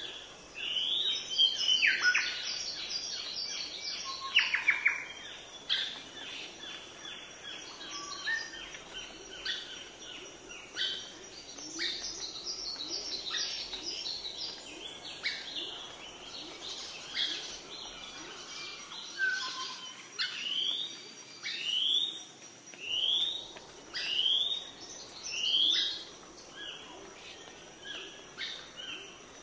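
Birds chirping and calling: short rising calls repeated again and again, with a quick run of rapid chirps in the first few seconds.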